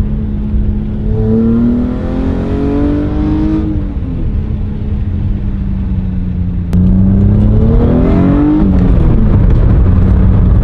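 Toyota MR2 engine with a new exhaust, running steadily and revving up and back down twice: once about a second in and again near the end. The second rev is louder.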